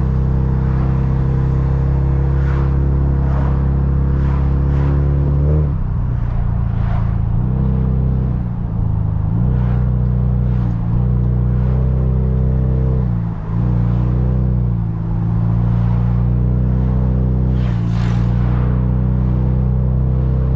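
Car engine running under way, a steady drone heard from the driver's seat whose pitch shifts in steps several times, first about six seconds in, as the speed changes.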